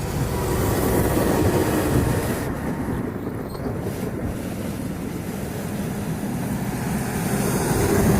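A train passing close by with a loud, steady rumble. It swells within the first second, eases a little in the middle and grows louder again near the end.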